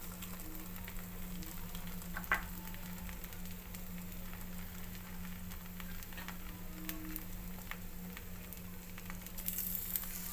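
Uttapam batter with chopped vegetable toppings sizzling on a hot oiled non-stick pan: a soft, steady frying hiss over a steady low hum, with a few light ticks.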